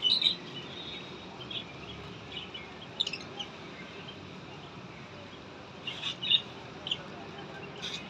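Small birds chirping: short, high chirps that come singly or in quick pairs at irregular intervals, the loudest right at the start and again about six seconds in.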